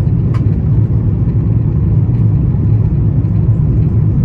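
Airbus A350-900 cabin noise heard from a window seat: a steady low rumble of the engines and airflow, with a faint click about half a second in.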